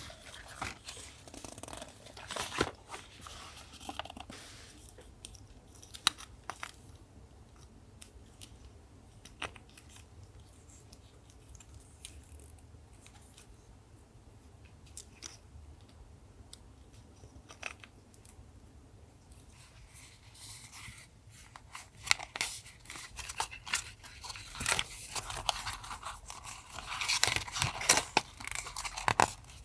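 Paper crafting sounds close up: scattered rustles and light clicks of paper and stickers being handled, quieter for a stretch in the middle, then denser crinkling and tearing of paper over the last ten seconds or so.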